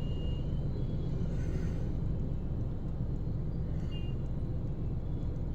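Steady low rumble of a car driving, engine and tyre noise, with a couple of faint brief high tones.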